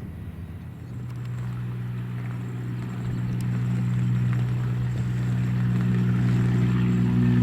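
Light propeller airplane's engine and propeller drone, a steady hum that grows louder as the plane approaches.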